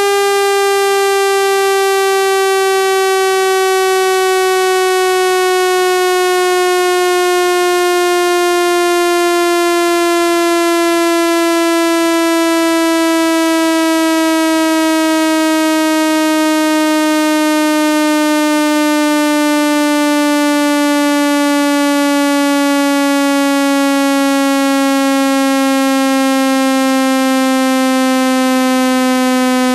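Synthesized speaker-cleaning tone: a loud, steady buzzy tone rich in overtones, sliding slowly and smoothly down in pitch, meant to vibrate a phone speaker's membrane and shake dust out of its grille.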